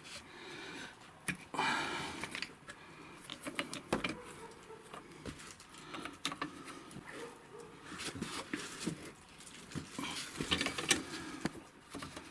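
Scattered clicks and knocks of hand tools and metal wheelchair parts being handled, with rustling between them and a few sharper knocks.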